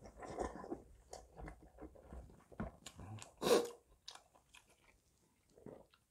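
Close-miked chewing of spicy gopchang jeongol (beef intestine hot pot) mixed with rice, with a strand of food slurped in at the start. Wet smacks and small clicks come in quick irregular succession, and one louder, longer mouth sound comes about three and a half seconds in.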